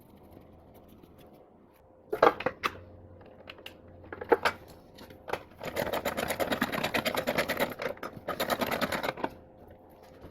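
Hand tools working on engine parts: a few sharp knocks, then about three and a half seconds of rapid clicking.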